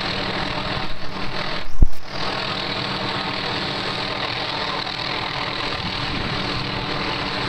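Steady drone of a helicopter working close by, its engine and rotor running with a constant hum and noise. A brief low thump comes about two seconds in.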